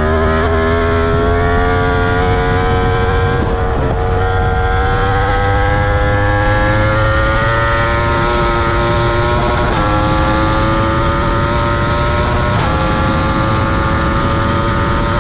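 Yamaha R1 crossplane inline-four, breathing through a full Akrapovic titanium exhaust with a dB killer, pulling at a moderate pace. Its pitch climbs gradually and dips briefly at three upshifts, about four, ten and thirteen seconds in.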